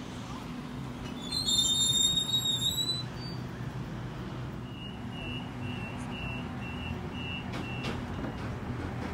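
Sydney Trains electric train standing at the platform with a steady hum from its equipment. A high squeal rings out for about a second and a half, then a run of about eight short, evenly spaced high beeps, the train's door-closing warning.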